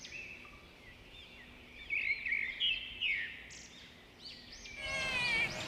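Captive birds chirping and calling: short, arching chirps in two clusters about two and three seconds in, then a busier overlapping chorus of calls near the end.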